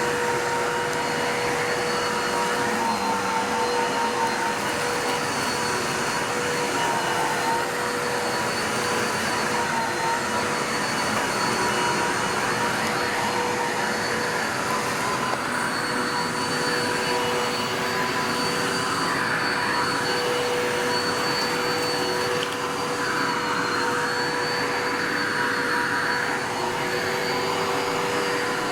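Bissell 3760-1 vacuum cleaner running steadily: a constant motor whine over rushing air that swells and eases from moment to moment.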